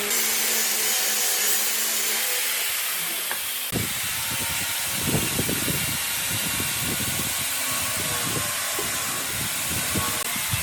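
Workshop sounds of wood being worked: a steady hiss, with irregular rubbing and scraping strokes on wood starting about four seconds in.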